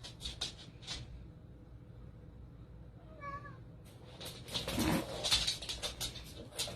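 A cat gives one short meow about three seconds in, among light clicks and rustling that grow busier in the last few seconds.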